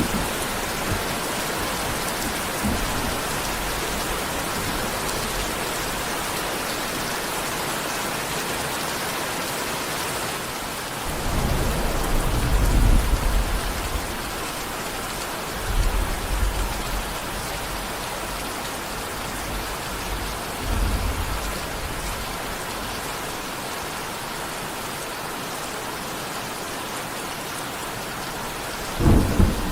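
Steady heavy rain falling, with rumbles of thunder, the longest about a third of the way in and shorter ones after it.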